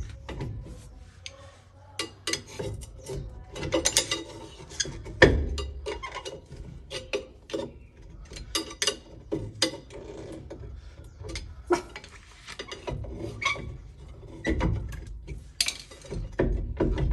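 Rear brake drum of a Fiat Fiorino being rocked and pulled on its hub: irregular metallic clicks, clunks and rattles, with one loud knock about five seconds in. The drum is catching on something as it comes off.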